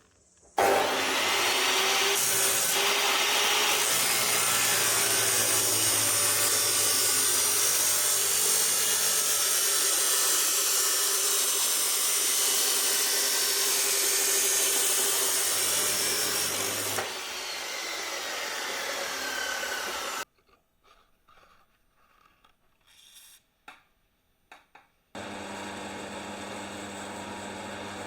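A power tool working steel plate: a loud, steady, hissing grind that starts about half a second in, drops lower about two-thirds of the way through and stops a few seconds later. A few light knocks follow, then a steady machine hum with a clear pitch starts near the end.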